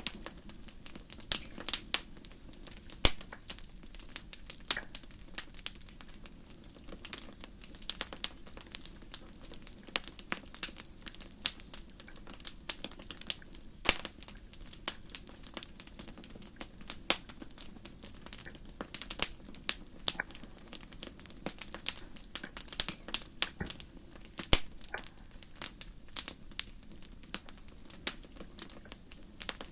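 Wood fire crackling: irregular sharp snaps and pops, several a second, over a low steady hiss of burning.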